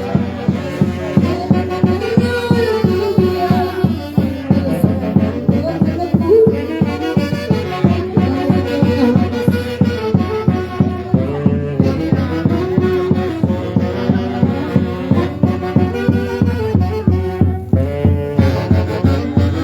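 A Huancayo orquesta plays an instrumental dance tune live, with a steady quick beat under a melody carried by wind instruments.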